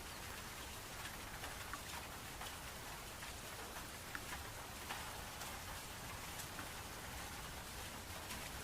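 Steady rain falling, an even hiss of rain with many scattered individual drops ticking on a surface.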